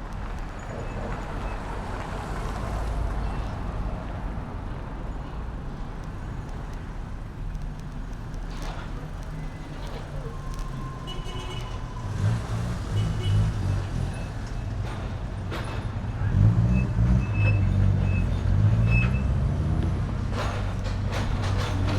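Street traffic and road noise heard from a bicycle's handlebars, with a low vehicle rumble that grows louder about halfway through and is loudest a few seconds before the end.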